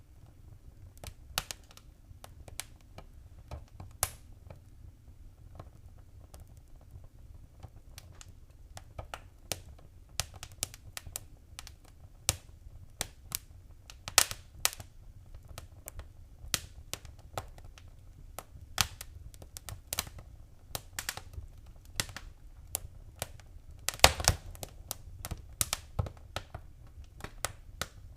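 Wood fire crackling: irregular sharp pops and snaps over a low steady rumble, with a burst of louder pops near the end.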